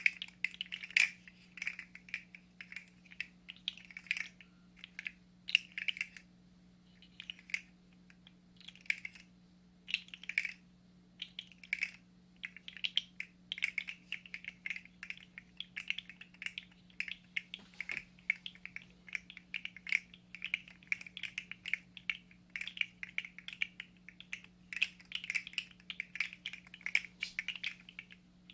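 Segments of a 3D-printed plastic fidget slug clicking and rattling against each other as it is wiggled in the hands, in irregular quick clusters that become denser about halfway through, over a faint steady low hum.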